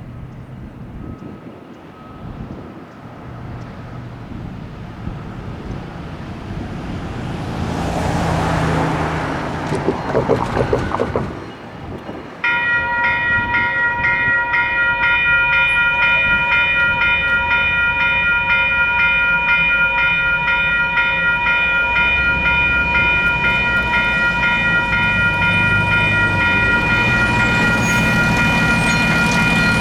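A vehicle passes on the street, then about twelve seconds in a railroad crossing's electronic warning bell starts up abruptly and rings on with an even, rapid ding, signalling an approaching train. A low engine rumble builds under the bell near the end.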